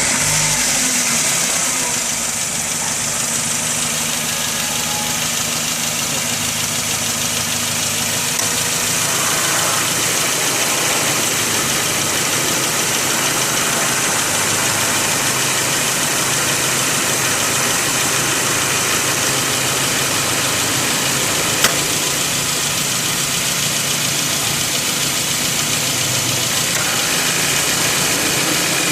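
Suzuki Grand Vitara engine idling steadily with the A/C compressor running, the compressor freshly serviced with a new desiccant filter, A/C oil and a new refrigerant charge. A single sharp click about three quarters of the way through.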